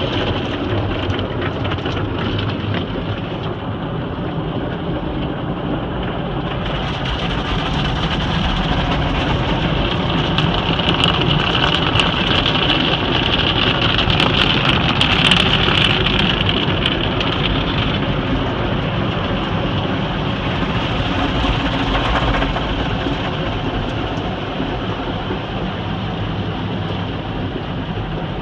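Conveyor automatic car wash at work: water jets spraying against the car over a steady machinery rumble. The spray grows louder and hissier for several seconds midway.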